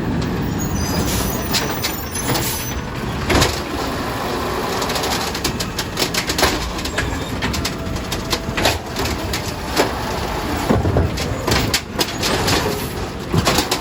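Yard-waste garbage truck running, with a string of sharp metallic clanks and knocks over the steady engine noise, coming thicker from about five seconds in.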